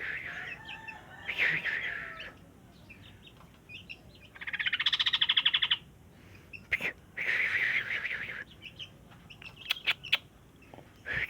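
Sooty-headed bulbul calling: short chirpy notes, with a loud, rapid rattling chatter in the middle. A few sharp clicks come near the end.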